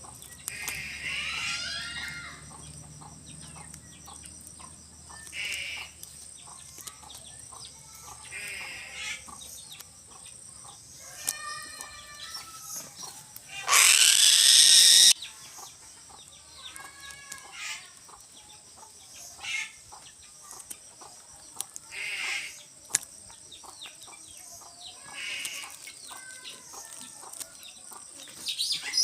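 Birds calling with short repeated clucking and squawking calls. About halfway through there is one loud, harsh squawk lasting about a second.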